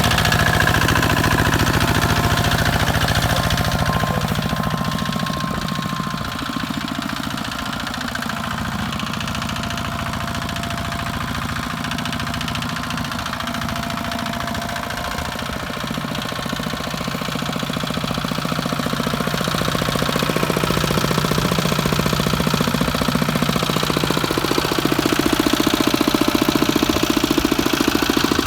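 Kubota walking tractor's single-cylinder diesel engine running with a rapid, even chugging, dropping back somewhat a few seconds in and growing louder again over the last third.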